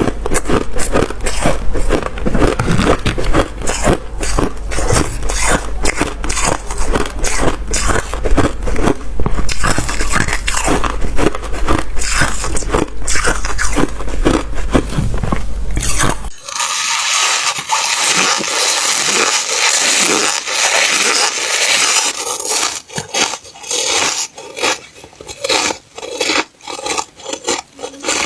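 Freezer frost being bitten and chewed in a rapid run of crunches. About two-thirds of the way through, the sound changes abruptly to a brighter, hissier crunching, then breaks back into separate crunches near the end.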